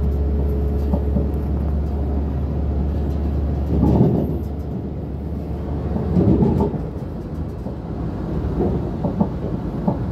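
A train running, heard from inside the carriage: a steady low rumble with louder clatter of the wheels over the track about four and six seconds in. A low steady hum under the rumble drops away about four seconds in.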